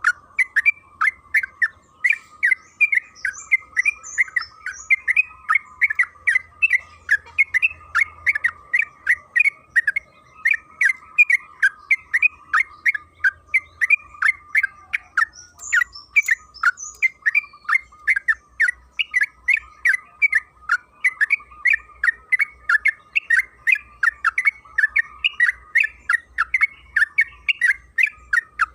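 Yellow-vented bulbul (trucukan) singing a long, unbroken run of short chattering notes, about three a second, in the long continuous song style that bird keepers call ropel panjang.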